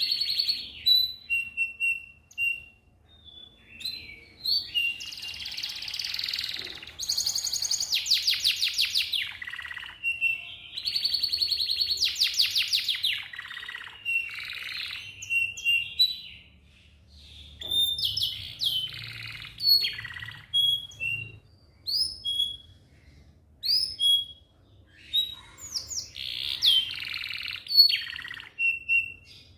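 Domestic canary singing a long song of fast rolling trills, whistled notes and sharp upswept chirps, broken by short pauses.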